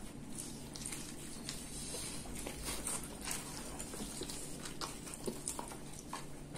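Close-miked chewing of thin-crust pizza topped with arugula: soft, irregular mouth clicks and small crunches.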